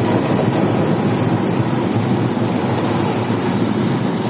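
Automatic car wash running: a steady, even rushing noise.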